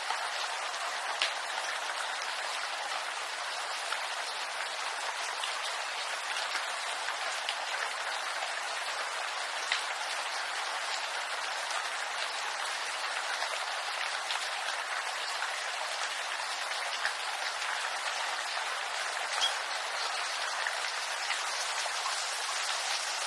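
Steady rain falling on a bamboo grove, an even hiss of many drops with a few louder single drops standing out now and then.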